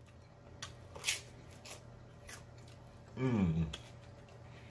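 A man chewing loaded pork rinds close to the microphone, with scattered crunches and mouth clicks. About three seconds in he gives a short hum that falls in pitch.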